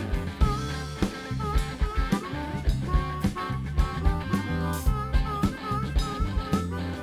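Live blues-rock band playing an instrumental passage between vocal lines: a lead line of short, repeated bent notes over a steady bass line and drum kit.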